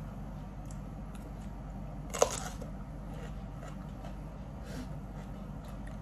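Close-up crunch of a bite into a raw green bell pepper: one sharp crack about two seconds in, followed by a few faint chewing crackles, over a steady low hum.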